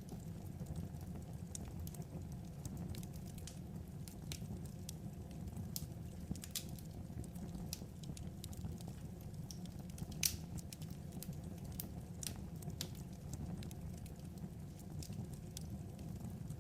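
Wood fire crackling: a steady low rumble with irregular snaps and pops, one louder snap about ten seconds in.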